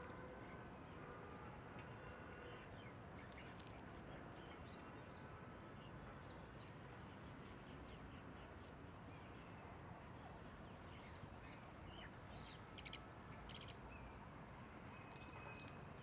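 Faint outdoor ambience with scattered short, high bird chirps. A brief cluster of sharper, quickly repeated chirps comes about three-quarters of the way through.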